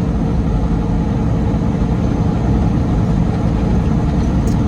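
Steady drone of a semi truck's engine and road noise heard inside the cab while driving, with a brief tick near the end.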